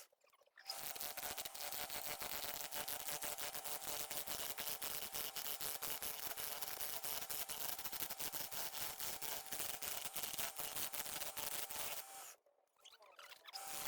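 Steady small-motor hum with dense, rapid crackling over it, dropping out briefly at the start and again about twelve seconds in.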